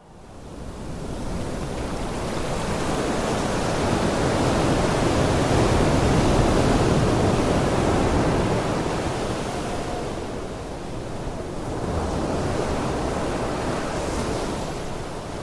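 Ocean surf: a steady rushing wash of waves that fades in at the start, then swells and ebbs.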